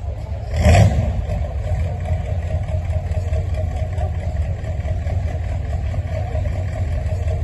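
A 1931 Ruston & Hornsby engine running steadily with a low, pulsing rumble, with one loud bang about a second in.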